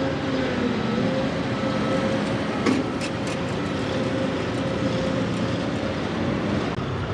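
Heavy vehicle engine running steadily, with a held tone that dips briefly about a second in and a few sharp clicks near the three-second mark.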